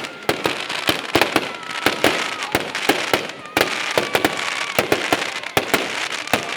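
Fireworks going off: a rapid, irregular string of sharp cracks and bangs, several a second, over a steady crackling hiss, with faint whistles.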